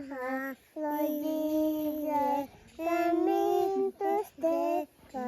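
A child's voice singing a short prayer song before a meal, in phrases of long held notes with brief pauses between them.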